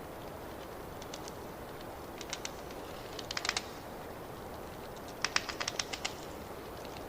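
Wood fire crackling in a fireplace: a steady low hiss with clusters of sharp pops and snaps, the busiest run a little past halfway.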